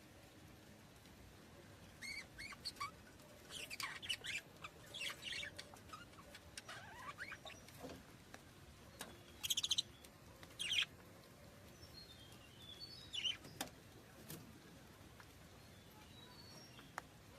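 Budgerigars chirping: scattered short, squeaky high calls and whistled glides, some in quick clusters, with a few sharp clicks.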